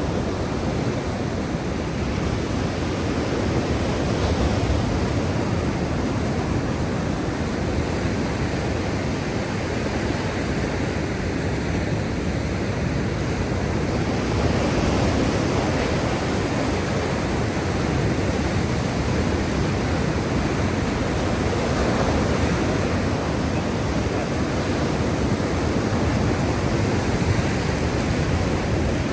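Black Sea waves: a steady rush of surf that swells a little now and then.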